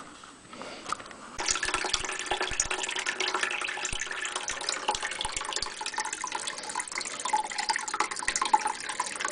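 Water draining from a gas water heater's tank and splashing into a bucket, starting about a second and a half in and then running steadily.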